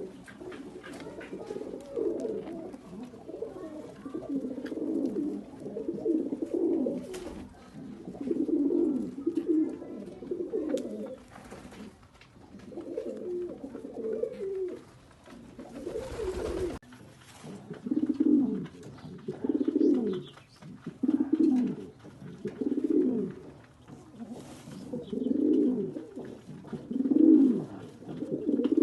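Domestic pigeons cooing over and over, a low cooing phrase every second or two. A brief noise cuts in about halfway through.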